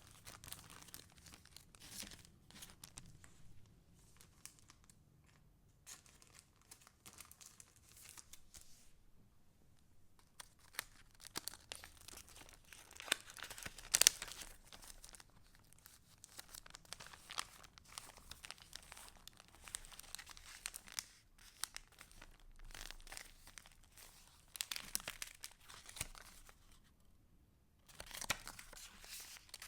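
Paper rustling and crinkling as junk journal pages and paper pieces are handled and turned, in irregular bursts with short pauses, and a sharp crackle of paper about halfway through.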